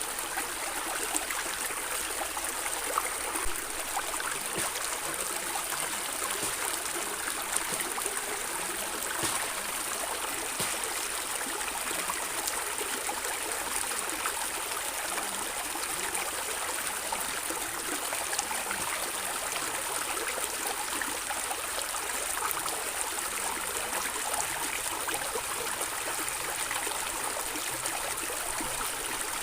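Water in a stream running steadily over stones, with a continuous gurgling and trickling.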